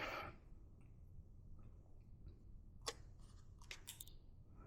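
Near silence with a soft short rush at the start and a few faint clicks, the clearest about three seconds in.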